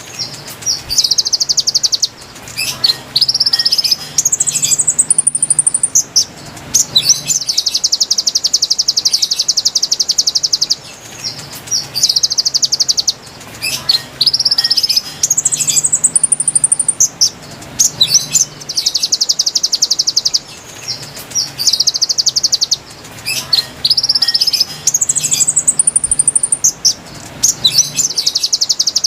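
Konin bird song played as a lure recording: a loud, rapid trill of two to three seconds alternating with a run of rising whistled notes. The same sequence repeats about every ten seconds.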